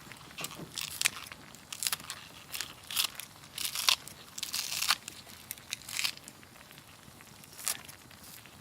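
Wood campfire crackling, with irregular sharp pops and crunches a second or so apart.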